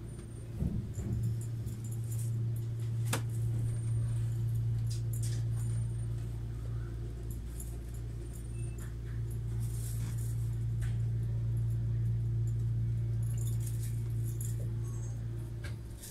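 Cabin noise inside a Kintetsu 80000 series Hinotori limited express train in motion: a steady low hum and rumble, with a few light clicks and rattles. The hum drops away suddenly near the end.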